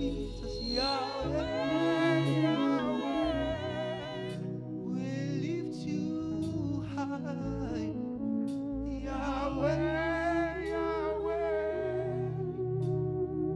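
Gospel praise and worship music: a singer holds long wordless notes with vibrato in two phrases, over steady sustained instrumental backing.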